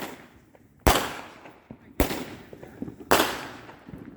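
Fireworks going off: four sharp bangs about a second apart, each trailing off in an echo.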